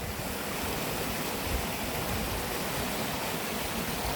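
Running water rushing steadily, like a stream.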